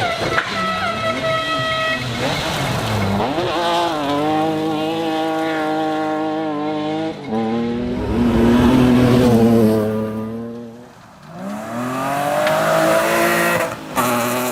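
Rally car engine revving hard and changing gear, its pitch repeatedly climbing and dropping, with tyre noise on the loose surface. About eleven seconds in the revs drop right away, then rise again.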